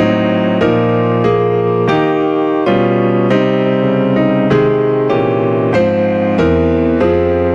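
Church postlude played on a keyboard instrument: a steady run of sustained chords, changing about every half second to a second.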